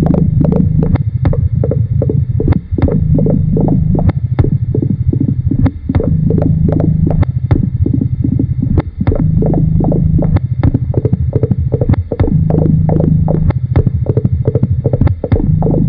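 Experimental electronic tape music: a dense, low throbbing drone under a steady stream of sharp clicks, about four a second. The pattern repeats in a loop, with a short drop-out about every three seconds.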